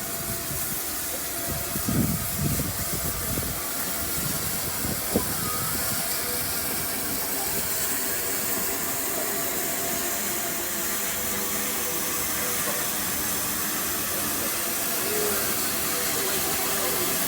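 Steam locomotive letting off a steady hiss of steam, with a single sharp click about five seconds in.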